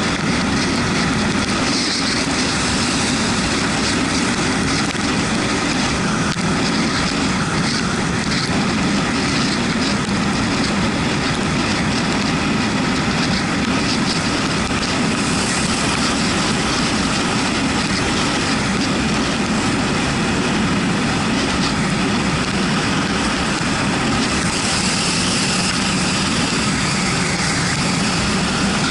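A Yamaha MT-125 motorcycle's single-cylinder engine running steadily on the move, under a constant hiss of wet-road spray and wind. The hiss swells twice, about halfway through and again near the end.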